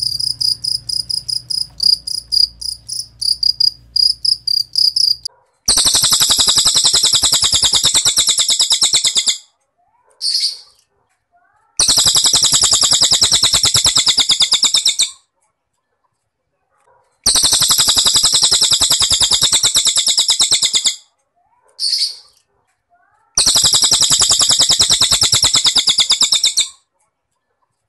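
Cricket chirping in quick, even pulses for the first five seconds. Then a cililin bird sings four long, very fast high trills of about three and a half seconds each, with a short single note in two of the pauses between them.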